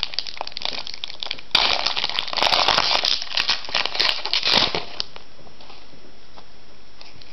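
Foil wrapper of a Pokémon trading card booster pack crinkling as it is handled. About a second and a half in it is torn open and crumpled loudly for some three seconds, then stops.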